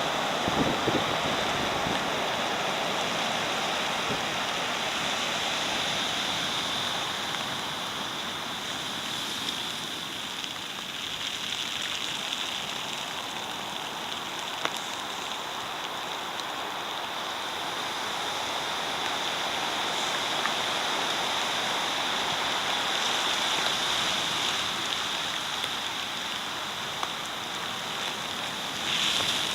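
Typhoon-driven high surf: a continuous rush of breaking waves and water washing over a seawall, swelling and easing every several seconds, with a louder surge near the end.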